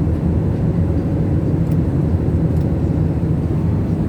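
Steady low rumble of an airliner cabin in flight: engine and airflow noise, even and unbroken.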